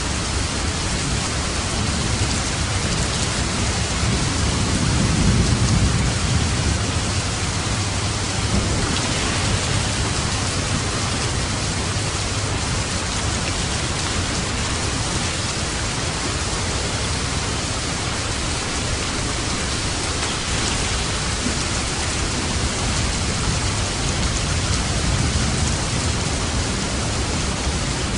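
Steady rain falling as an even hiss, with a low rumble swelling up about five seconds in and again near the end.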